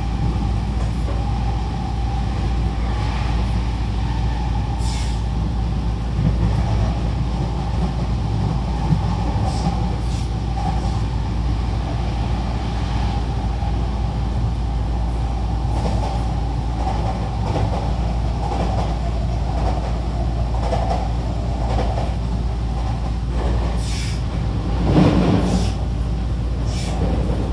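Running noise of an E257-2000 series electric train (Mitsubishi IGBT-VVVF inverter), heard inside the car: a steady rumble of wheels on rail with a wavering mid-pitched hum. There are a few short clicks, and a brief louder surge about 25 seconds in.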